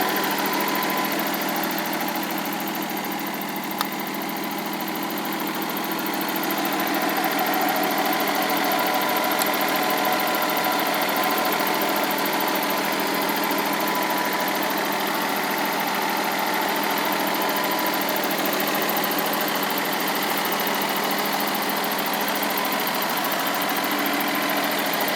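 Nissan RB20 inline-six engine idling steadily, with one short click about four seconds in.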